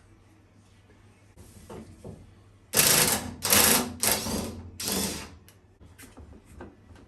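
A power tool run in four short bursts of rapid rattling, each about half a second, about three seconds in, with light clicks and knocks before and after.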